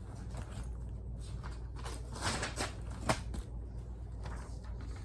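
Paper rustling as a sheet is picked up and handled, with a few soft swishes and one sharp tap about three seconds in.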